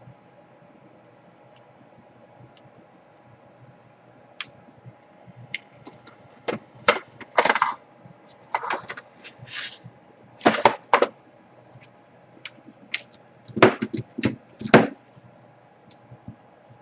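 Small metal parts and tools clinking and clattering against each other and a work surface during laptop reassembly: an irregular run of sharp clicks starting about four seconds in, loudest in the second half.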